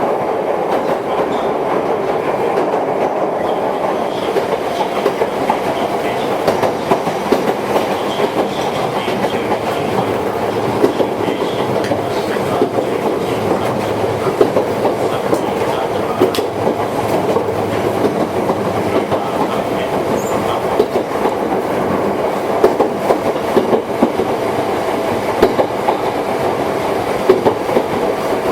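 Running sound of a Toyohashi Railway 1800 series electric train, a former Tokyu car: a steady rumble and hum of the running gear, with short sharp clicks of the wheels over rail joints.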